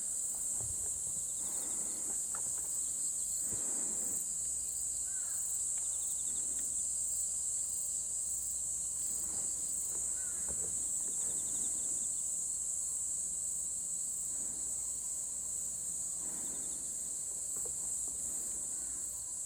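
A chorus of insects, crickets by their sound, trilling in one steady high-pitched drone, with a few faint bird chirps now and then.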